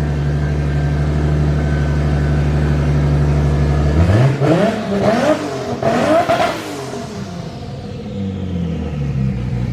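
2JZ straight-six engine in a Mazda RX7 idling loudly, then revved up a few times about four seconds in and dropping back to a steady idle near the end. It is too loud on its current exhaust.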